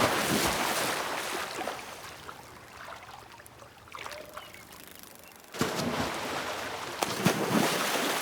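Water splashing and sloshing as a moose moves and feeds in a shallow pond. A loud spell at the start fades over a couple of seconds, and another starts suddenly about five and a half seconds in.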